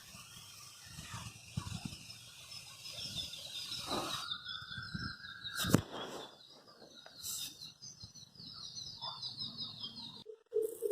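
Small birds chirping in a rapid, repeated series, with a few sharp knocks in the foreground, the loudest a little past halfway.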